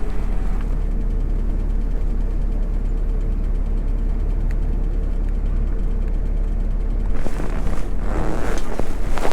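Harley-Davidson Breakout 117's Milwaukee-Eight 117 V-twin running steadily through a Vance & Hines Eliminator 300 slip-on exhaust, a deep even rumble. A burst of rushing noise comes in near the end.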